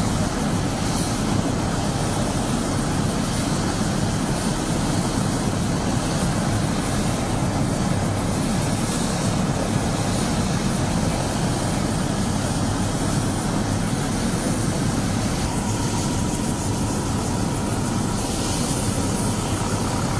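Rescue helicopter's rotor and turbine engine running, a steady loud noise with a fast low rotor flutter.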